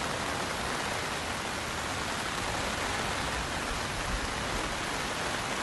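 Rain falling steadily: a continuous, even hiss.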